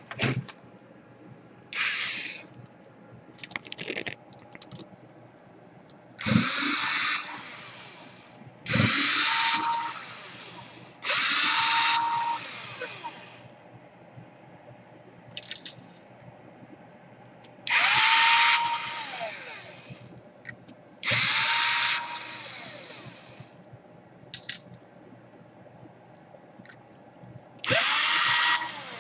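Small electric screwdriver running in short bursts of a second or two, about six times plus a few brief blips. Each time its motor spins up to a steady whine and winds down, as it drives out laptop screws.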